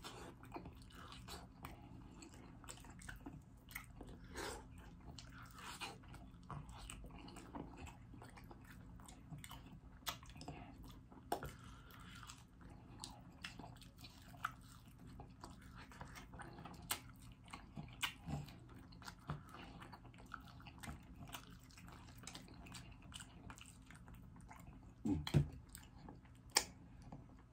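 Biting and chewing crispy pancake-battered fried chicken, with a scatter of small crunches and mouth clicks.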